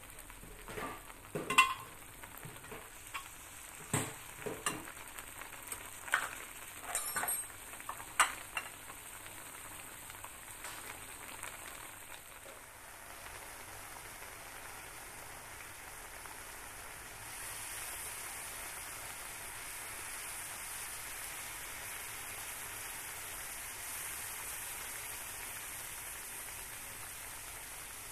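Pork and spice paste sizzling in a wok. A metal spatula scrapes and clacks against the pan several times in the first few seconds. Later a steady sizzle grows a little louder as coconut milk is poured onto the hot meat.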